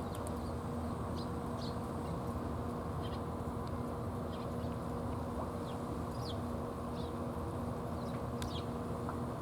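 Small birds chirping now and then in short, high, falling calls over a steady low background rumble with a faint hum.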